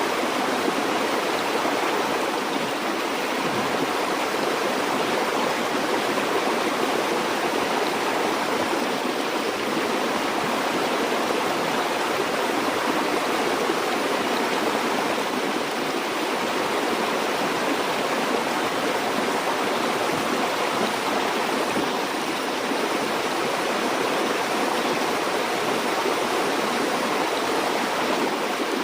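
A stream or small river flowing steadily, a continuous even rush of water with no distinct splashes or drips.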